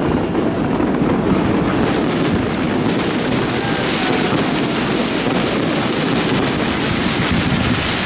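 Fireworks display: a dense, continuous barrage of bangs and crackling, with no single loud burst standing out.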